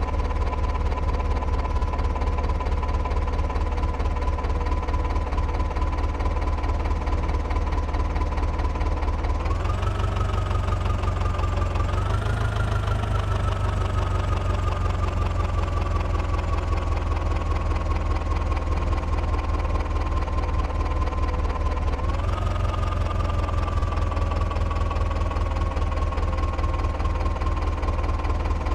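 Sonalika tractor's diesel engine running hard with a heavy low rumble. Its speed jumps up about a third of the way in, again shortly after, and once more about two-thirds in, each time sinking slowly back down.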